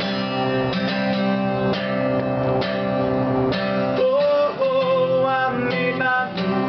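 Acoustic guitar strummed in a steady rhythm, about one strum a second, accompanying a song between sung lines. About four seconds in, a long held melodic note comes in over the guitar.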